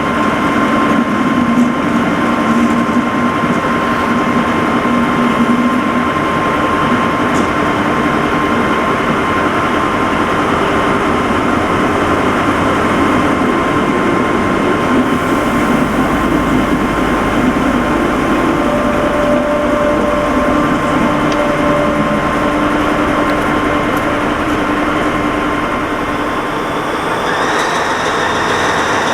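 Diesel locomotive engine running with a steady hum over a wash of noise. Its sound shifts near the end.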